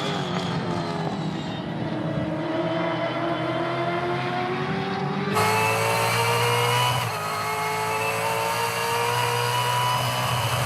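Gen 3 Ford Mustang Supercars race car's V8 pulling hard under load, its pitch climbing steadily without a break for a shift, with the whine of its straight-cut sequential gearbox. The sound changes abruptly about five seconds in.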